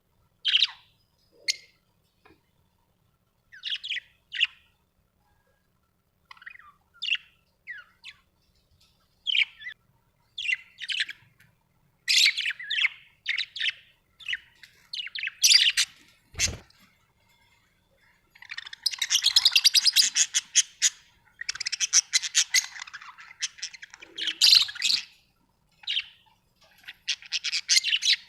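Budgerigars chirping in short separate calls, then breaking into a long, fast chattering warble about two-thirds of the way through. A single knock sounds about halfway.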